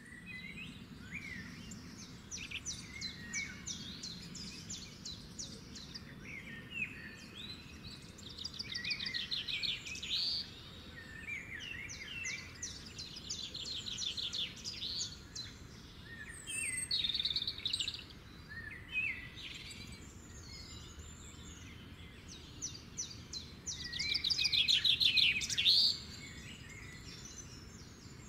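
Several songbirds chirping and singing with overlapping calls and rapid trills, over a steady low background noise. The trills come in louder bursts, the loudest a little before the end.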